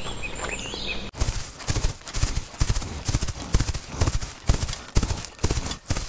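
Horse's hooves striking sand at a canter, a rapid run of thuds about three a second, starting about a second in.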